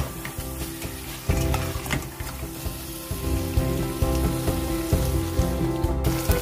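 Chicken mince and potato pieces sizzling in a stainless steel pot while a metal spoon stirs them, clicking and scraping against the pot, with background music playing underneath.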